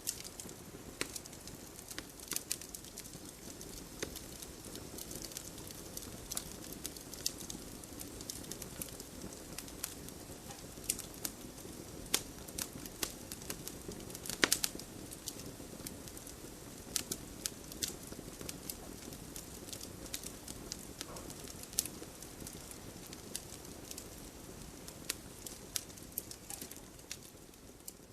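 Wood campfire burning, with a steady low rush of flame and frequent irregular crackles and pops, one louder pop about halfway through.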